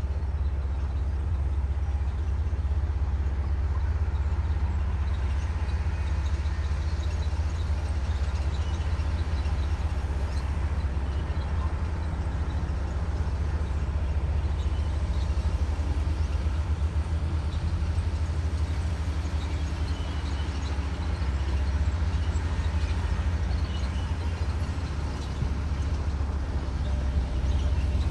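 Komatsu D58E bulldozer's diesel engine running steadily, a continuous low rumble.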